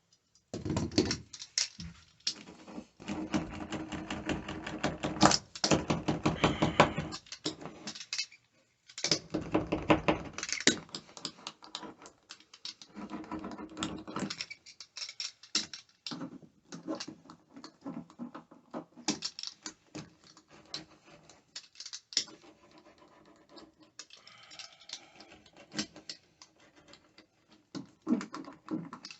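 Hand work on parts and tools during an interior job: a long run of irregular clicks, taps, scrapes and rattles, busiest in the first ten seconds, with a short pause partway through and lighter ticking and tapping afterwards.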